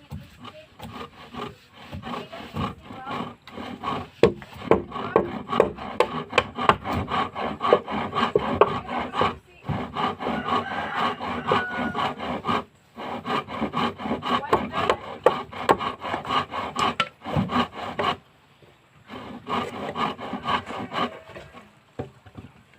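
A hand tool cutting or scraping wood in quick repeated strokes, in runs broken by short pauses, while boat rails are shaped.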